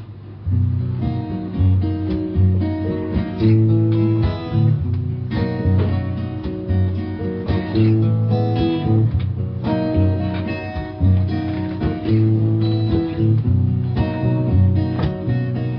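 Acoustic guitar playing the instrumental introduction of a folk song live, with picked and strummed chords ringing over a steady run of low notes.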